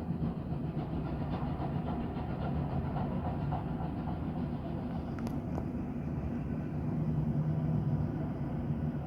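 Motorcycle engine running steadily as a low, even rumble while riding, with two short clicks about five seconds in.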